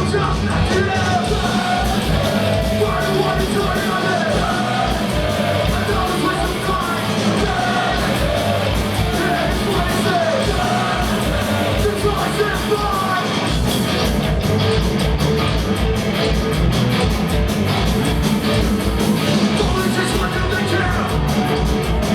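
A punk rock band playing live, loud and amplified: distorted guitars, bass and a fast, steady drum beat, with shouted vocals over them.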